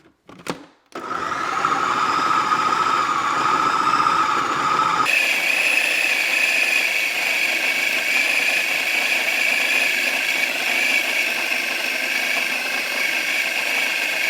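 Food processor motor running, chopping poached chicken breast and garlic. Its steady whine jumps to a higher pitch about five seconds in and then holds.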